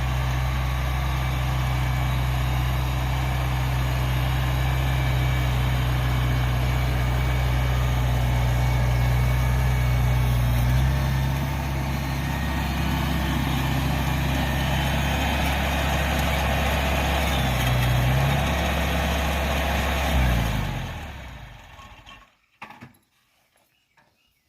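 1971 International Cub's four-cylinder gasoline engine running steadily, its note changing about halfway through. Near the end it is shut off and winds down to a stop, followed by a couple of faint clicks.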